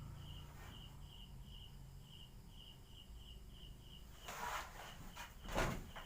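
An insect chirping steadily at night, a high pulsing note repeating about two to three times a second. Two brief rustling thumps come near the end, the second the loudest.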